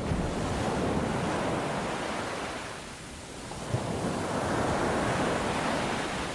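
Ocean waves washing onto the shore, rising and falling twice.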